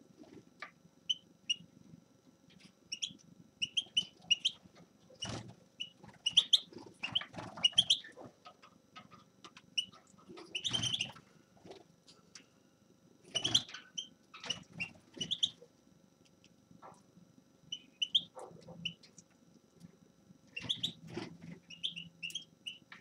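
A caged finch giving short, high chirping calls in scattered bursts. Several sharp knocks and rustles fall between the calls.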